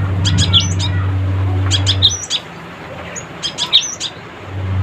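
Cinereous tit (gelatik batu) chattering in three quick bursts of sharp notes with upswept whistles, about one and a half seconds apart. Under it a steady low hum cuts out about halfway through and comes back near the end.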